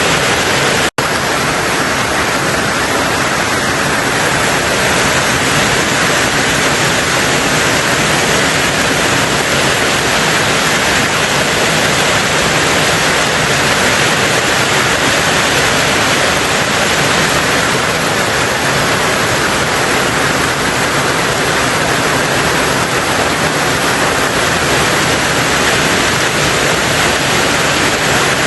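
Rain falling on a tin roof, a steady even hiss with no let-up, broken only by a momentary dropout about a second in.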